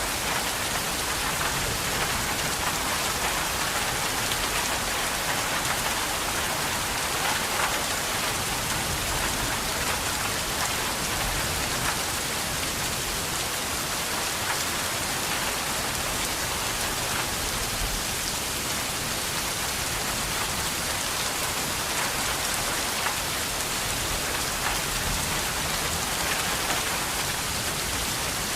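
Steady rain falling and pattering on a surface, with a dense, even hiss of many drops.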